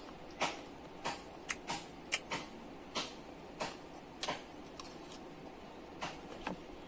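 Crunchy toasted corn kernels being chewed, giving irregular sharp crunches about one or two a second.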